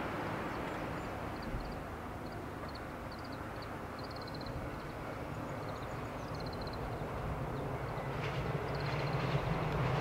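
A train approaching along the railway line, its rumble growing steadily louder over the last couple of seconds, with short high chirping calls scattered over the top.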